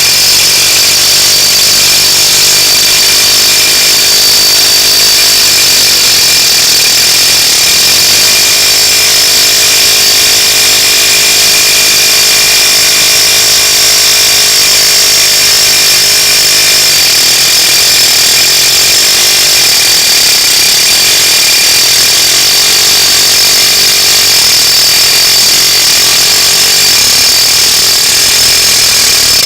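Pneumatic air hammer with a chisel bit running continuously and very loudly against a rusted-in U-joint bearing cap on a truck driveshaft, starting and stopping abruptly. The seized cap is being driven out of the yoke.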